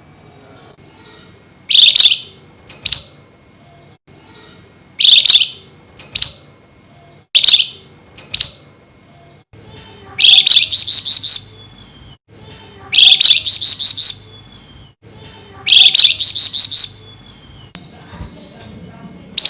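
Flamboyan bird giving loud, sharp, shrill calls. At first the calls come in pairs about a second apart. From about halfway on, each burst runs into a rapid chattering series of about five notes a second.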